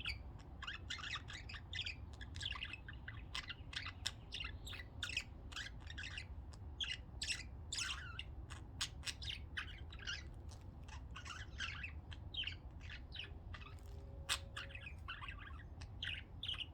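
Pet budgerigars chirping and chattering in quick, short calls without a break, over a low steady hum.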